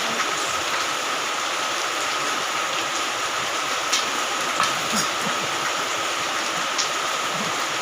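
Steady hissing background noise with a faint constant high tone running through it. A few short, sharp, high chirps come near the middle.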